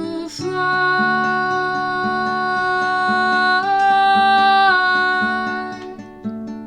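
A woman singing one long held note over fingerpicked acoustic guitar. The note steps up in pitch partway through and ends about five seconds in, leaving the guitar picking on alone.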